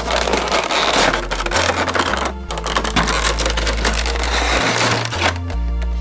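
Background music with a bass line stepping between notes, under loud crinkling and crackling of packaging being handled. The crackling stops about five and a half seconds in, leaving the music.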